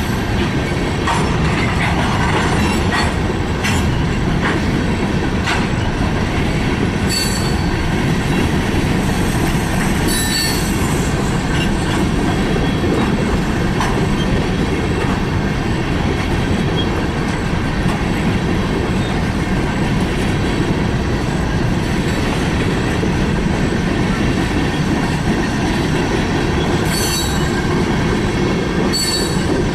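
Freight train cars rolling past at close range: a steady, loud rumble of steel wheels on rail, with a few brief high squeaks from the wheels.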